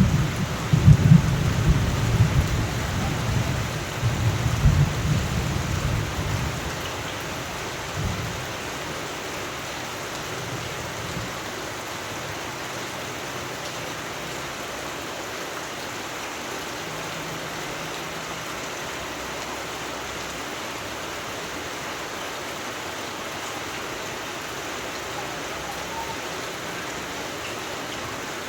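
Steady rain falling with a low rumble of thunder that dies away about seven seconds in, leaving an even hiss of rain.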